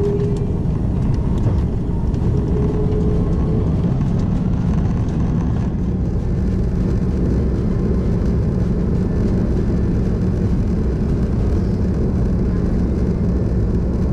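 Airbus A330-200 jet engines and airframe heard from inside the passenger cabin: a loud, steady low rumble.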